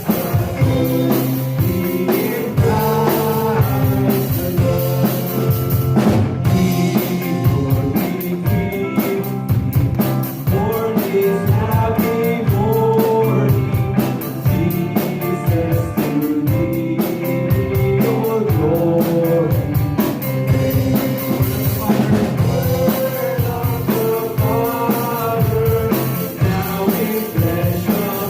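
Live church worship band playing a hymn on drum kit and guitar, with voices singing the melody.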